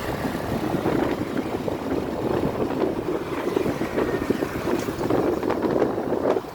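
Wind buffeting the microphone of a moving motorbike, over the bike's running and road noise; the rush drops off suddenly near the end.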